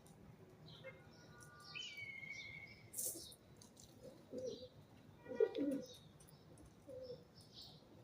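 Pigeons cooing in short low phrases through the second half, with higher chirps and a short steady whistle from a smaller bird in the first three seconds.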